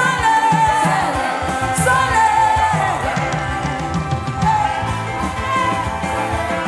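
Live gospel worship music: a voice sings long, gliding melodic lines over a band with a steady beat.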